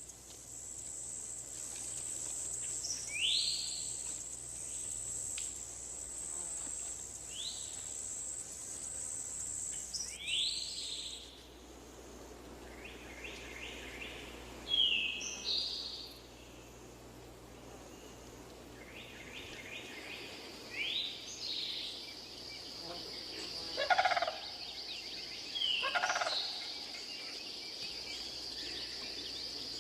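Swamp ambience: a steady high-pitched insect drone that stops about a third of the way in, with a lower drone taking over past halfway. Short sweeping bird calls come every few seconds over it, the loudest near the end.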